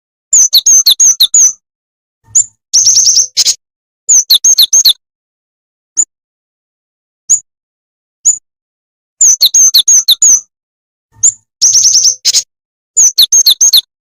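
Jingjing tetep bird lure call: clusters of rapid, high chirps about a second long, alternating with single short notes, with dead silence between them. The sequence repeats about nine seconds in, as a looped lure recording.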